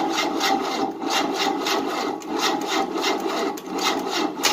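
Engine of a 1988 Tennant 255 Series II sweeper cranking on its starter without catching, a rhythmic chugging of about five strokes a second. The battery is too weak to turn it over well enough to start.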